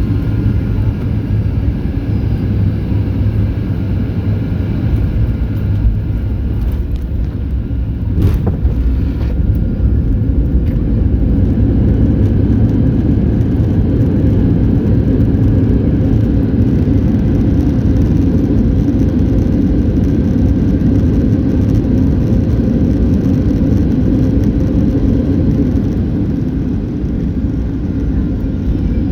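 Cabin noise of a Boeing 737-800 rolling on the ground after landing. It is a loud, steady low rumble of engines and tyres, with faint steady whining tones from its CFM56 engines.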